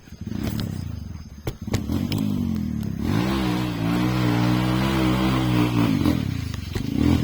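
Trail motorcycle engine revving: the revs climb about three seconds in, are held high for about three seconds, then drop back and pick up again near the end. A couple of sharp knocks sound about one and a half seconds in.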